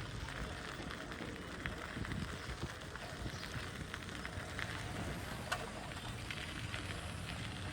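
Outdoor ambience: a steady hiss over a low rumble, with scattered light crackles and one sharp click about five and a half seconds in.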